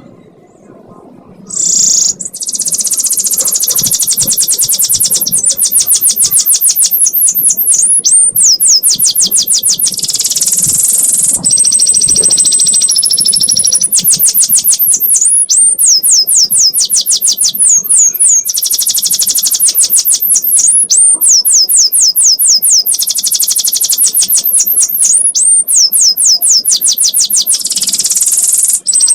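Domestic canary singing a long, unbroken 'ngekek' song, the kind played to tutor young canaries: fast high-pitched trills alternating with runs of rapid downward-sweeping notes and a briefly held whistle, starting about two seconds in.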